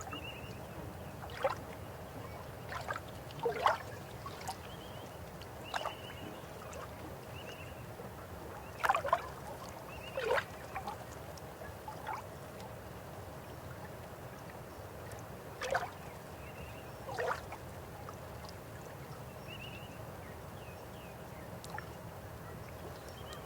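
River water flowing steadily, with sudden gurgles and splashes breaking through several times.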